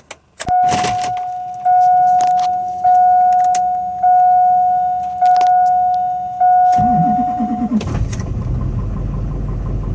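A key clicks in the ignition and the truck's dashboard warning chime sounds about six times, then the starter cranks for about a second and the LB7 Duramax 6.6-litre V8 turbo-diesel fires right up and settles into a steady run. It is a cold start in about -10 degrees with no block heater plugged in.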